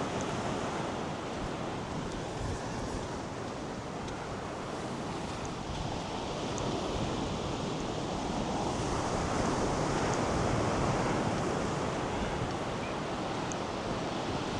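North Sea surf washing up the beach in a steady rush that swells to its loudest about two-thirds of the way through, with wind buffeting the microphone.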